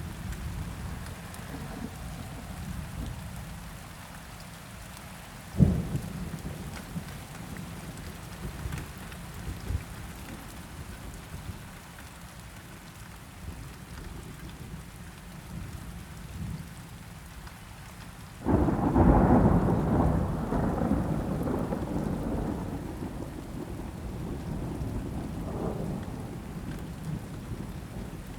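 Steady rain with thunder rumbling low throughout. A short sharp crack comes about six seconds in, and a loud thunderclap about two-thirds of the way through rolls on and fades slowly.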